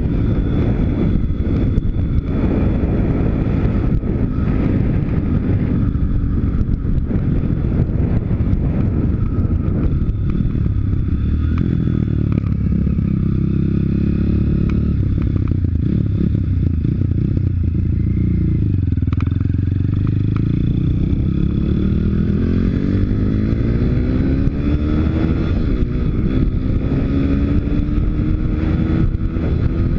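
Pit bike's 160 cc YX single-cylinder four-stroke engine running under way. The revs sink slowly to a low point about twenty seconds in, then climb steadily again.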